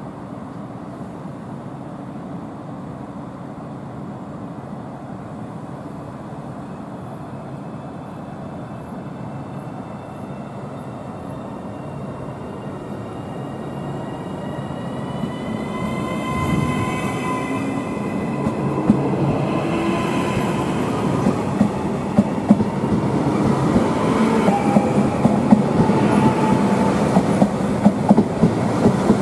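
Passenger train approaching and growing steadily louder, with a high whine at first, then a fast clatter of wheels over rail joints from a little past halfway on.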